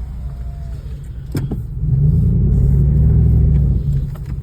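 Truck engine revving up and pulling hard through mud, heard from inside the closed cab, easing off near the end. A single sharp knock about a second and a half in.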